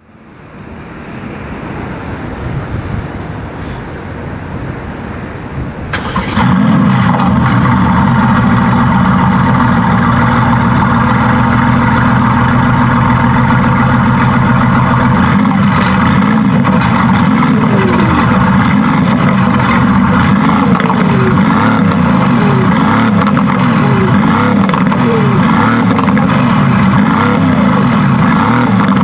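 Mercedes-AMG GT S twin-turbo V8 engine running at a loud, steady note. The note cuts in abruptly about six seconds in, after a quieter build-up of noise.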